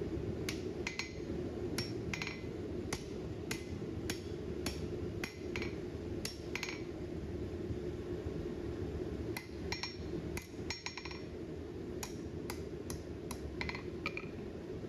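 Hand hammer striking steel bar stock on an anvil to straighten a bend: a run of single blows, about two a second, some with a short metallic ring. There is a pause of a couple of seconds about halfway through before the blows resume, over a steady low hum.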